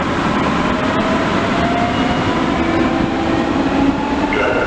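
S-Bahn electric train running in an underground station: a steady, loud rumble with a faint motor whine that rises slightly in pitch; a few higher steady tones join in near the end.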